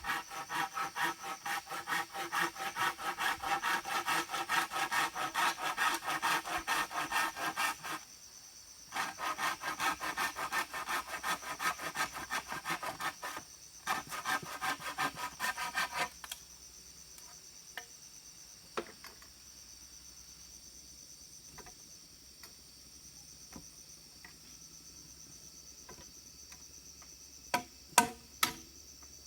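Hand sawing of wood, steady back-and-forth strokes about three a second, in three runs with two short pauses. The sawing stops a little past halfway, leaving insects droning steadily, and a few sharp knocks come near the end.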